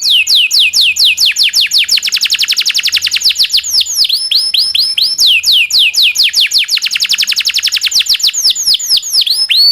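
Domestic canary (Indonesian local canary) singing a long unbroken song of high, quick downward-sweeping notes, running at times into very fast trills (rolls).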